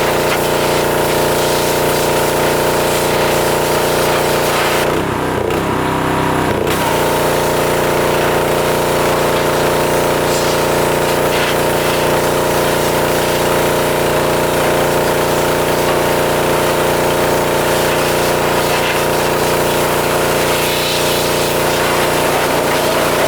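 Pressure washer running steadily, its motor humming under the hiss of the high-pressure water jet. The spray cuts out briefly about five seconds in, then resumes.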